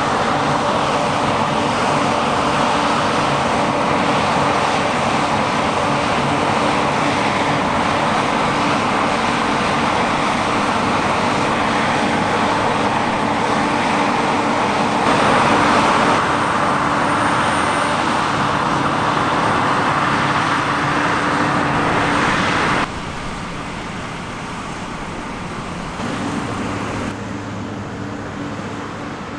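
Heavy diesel harvest machinery running steadily, a deep engine hum under a dense rushing hiss. The sound changes abruptly about halfway through and again near the end, dropping quieter for the last few seconds.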